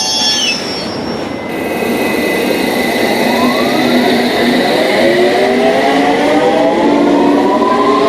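London Underground S7 stock train: a high wheel squeal ends about half a second in. From about three seconds in, the traction motors whine in several rising pitches as the train accelerates away, over steady wheel rumble.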